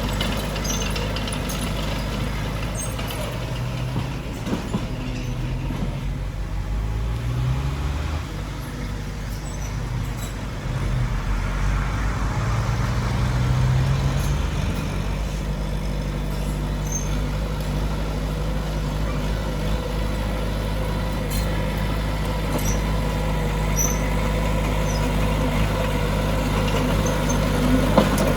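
Heavy diesel earthmoving machinery running under load, its engine pitch rising and falling several times as it works.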